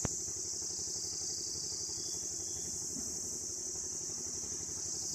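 A steady, high-pitched insect chorus of the cricket kind, over a low, evenly pulsing mechanical hum like a distant engine running.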